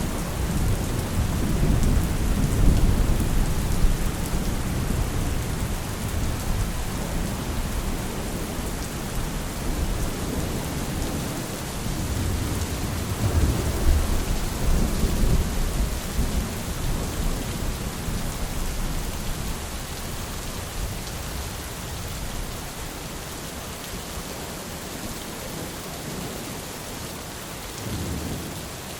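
Steady heavy rain with rolling thunder: deep rumbles swell in the first few seconds and again about halfway through, then die away over the last third while the rain hiss goes on.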